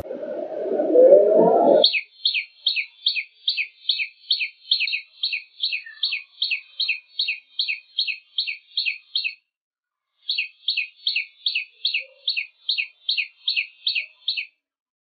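A bird calling a rapid series of short, high, downward-slurred notes, about three a second, in two runs separated by a pause of about a second.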